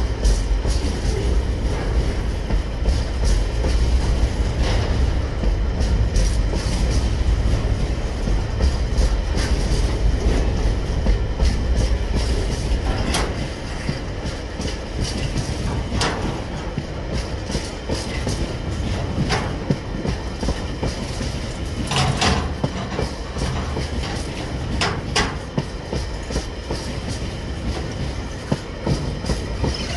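Freight train wagons rolling slowly past close by, with a steady rumble and wheels clattering over the rail. About halfway through the sound grows quieter as loaded container wagons give way to empty flat wagons, and sharp clicks come every few seconds after that.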